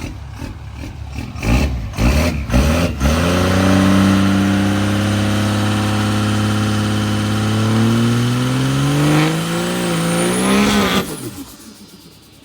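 Truck engine revving a few times, then accelerating hard in one long pull that slowly rises in pitch, with a high whine climbing near the end. It cuts off abruptly about eleven seconds in.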